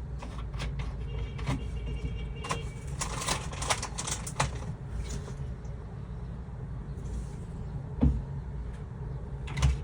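Small clicks and rattles of hands handling objects, clustered in the first half, over a steady low rumble, with a single thump about eight seconds in and another near the end.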